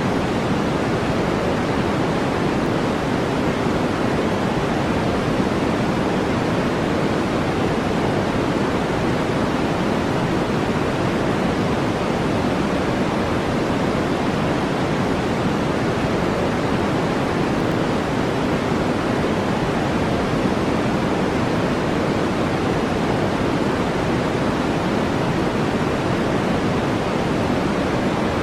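Steady synthetic noise, deep and even, with no breaks or changes: a brown-noise style sleep sound.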